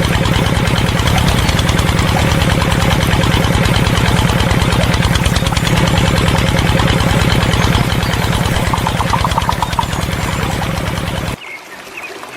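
Small engine running steadily with a fast, even knocking beat. It cuts off abruptly near the end, leaving a much quieter sound.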